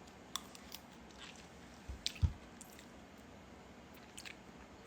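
Close-up eating sounds: a few soft mouth clicks and smacks, with one low thump about two seconds in.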